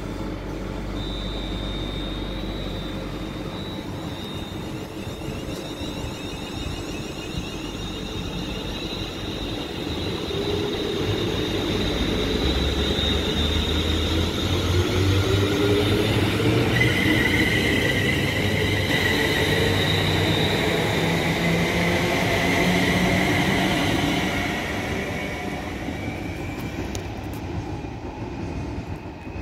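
A passenger train running through a station. A steady high whine sounds from the start, while the rumble grows to its loudest in the middle and fades over the last few seconds. A wavering high-pitched squeal joins at the loudest part.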